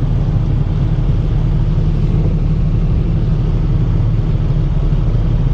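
Vehicle driving on a winter road: a loud, steady low rumble of engine and road noise with no change.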